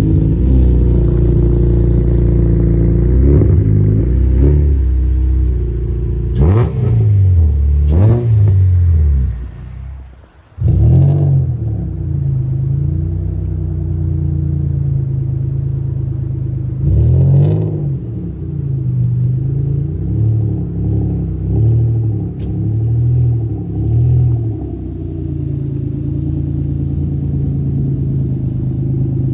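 Big-turbo Nissan Maxima engine idling and being revved: several sharp blips of the throttle that rise and fall quickly, then a run of shorter, lighter blips over a steady idle. The sound cuts out briefly about ten seconds in, then the idle picks up again.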